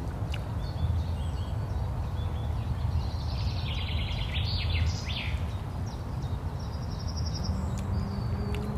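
Small birds chirping in short bursts, mostly a few seconds in and again near the end, over a steady low rumble, with a few faint clicks.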